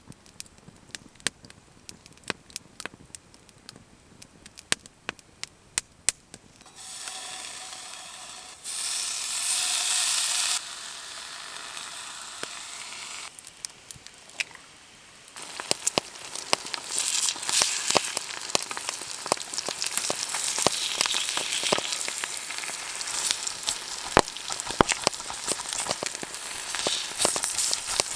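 Campfire crackling with sparse sharp pops, then bacon and eggs sizzling in a pan over the fire; the frying comes in about a quarter of the way through and grows louder and denser, full of spitting crackles, in the second half.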